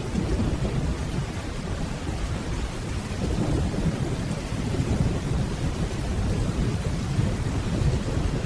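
Steady rainfall with a continuous low rumble of distant thunder underneath.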